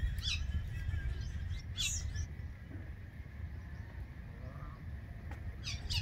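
Birds calling with short, high chirps, heard three times: at the start, about two seconds in, and near the end, over a steady low rumble.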